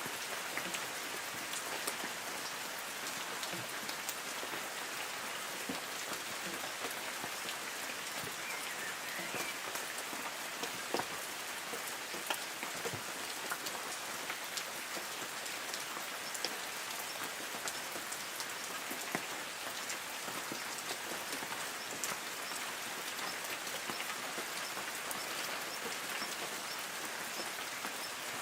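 Light rain falling on forest trees: a steady even hiss with many separate drops pattering on leaves.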